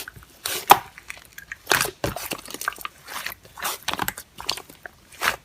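Slime being squished and worked, giving irregular crackling pops and clicks.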